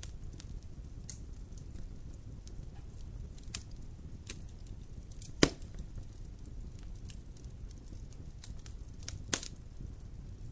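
Wood fire crackling in a fireplace: a steady low rumble of flames with scattered snaps, and two louder pops about five and a half and nine seconds in.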